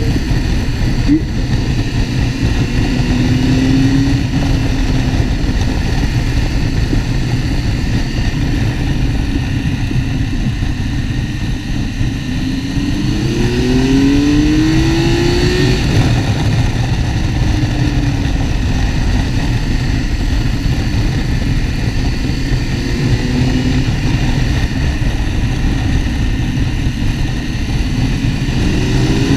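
Motorcycle engine running at road speed under a steady rush of wind noise on the microphone. The engine pitch rises as the bike accelerates several times, most clearly about halfway through, and then drops off.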